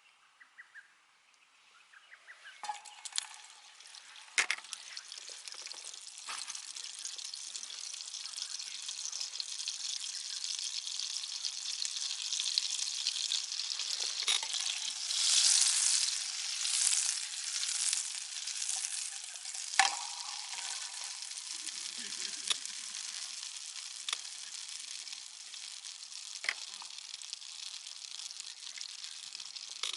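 Food sizzling on a hot iron griddle plate, starting about two seconds in, with a few sharp knocks of a utensil stirring it. The sizzling surges louder in the middle.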